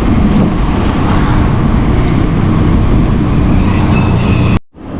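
Loud, steady road noise of passing traffic heard from a moving bicycle, cutting out abruptly for a moment near the end.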